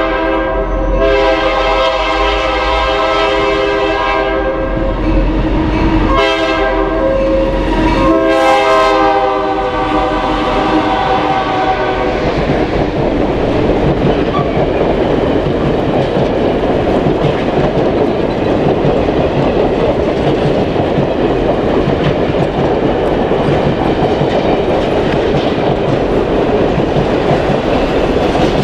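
A train's multi-note horn sounds in several blasts, the last long one ending about twelve seconds in. The cars then roll past with a steady rumble and clickety-clack of wheels over rail joints.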